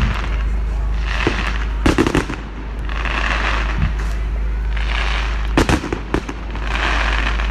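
Aerial fireworks going off in a repeating sequence: sharp bangs, each batch followed by a short rush of hissing noise, recurring about every two seconds.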